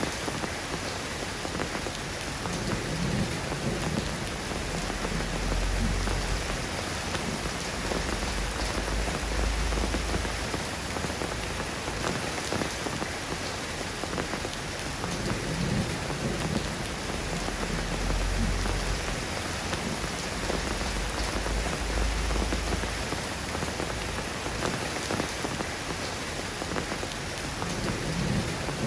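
Steady rain falling and pattering on surfaces, with low rumbles of distant thunder rolling twice, around a quarter and two thirds of the way through.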